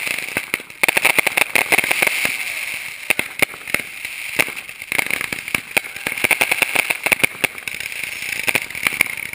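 Aerial fireworks going off in quick succession: a dense run of bangs and crackles, heaviest from about a second in, over a steady fizzing hiss.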